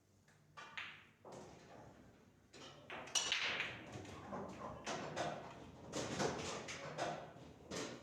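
Pool balls clacking and knocking, a busy run of sharp clicks that grows denser and louder from about three seconds in.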